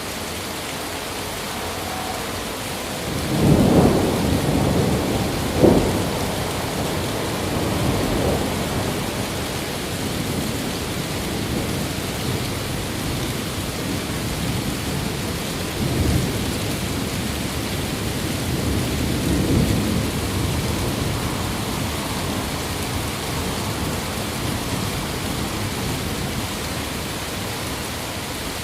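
Steady heavy rain hissing, with a roll of thunder a few seconds in that peaks in a sharp clap, then further, weaker rumbles of thunder that die away.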